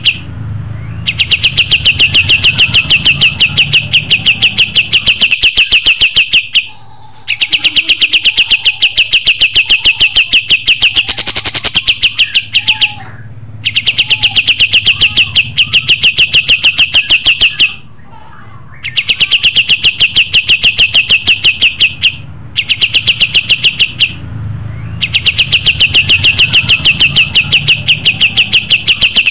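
Kapas tembak songbird singing loudly in long, fast trills of evenly repeated high notes, each run lasting several seconds with short pauses between, five runs in all.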